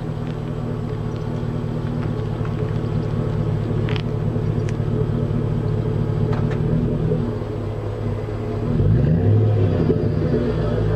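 2001 Chevrolet Tahoe's 5.3-litre V8 running steadily through a Flowmaster Super 44 muffler and 3-inch exhaust, with a deep rumble. Near the end it gives a short rev, rising in pitch and loudness, then settles back.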